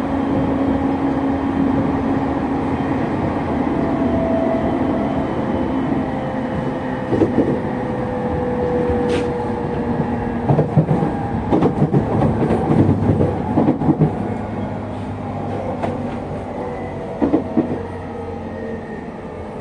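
Running sound inside a JR East E231 series 1000 commuter train with its original, unrenewed traction equipment: a steady motor hum, a tone that slowly falls in pitch, and clusters of wheel clacks over rail joints from about seven seconds in. The sound eases a little toward the end.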